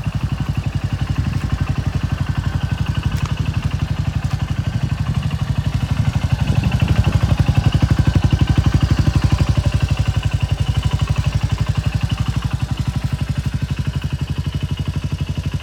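Suzuki Skywave 250 SS scooter's single-cylinder four-stroke engine idling with a steady, even beat. It grows a little louder for a few seconds midway, then settles back.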